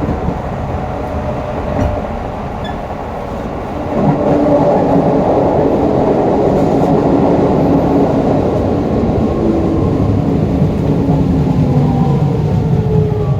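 Hokuso 7301's GTO-VVVF inverter and traction motors running, with a steady rumble of wheels on track that gets louder about four seconds in. Toward the end the inverter's whine falls steadily in pitch as the train slows.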